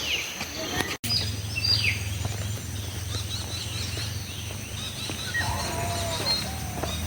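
Several wild birds calling: sharp falling whistles and quick repeated chirps, with a few lower calls near the end. A steady low hum runs underneath.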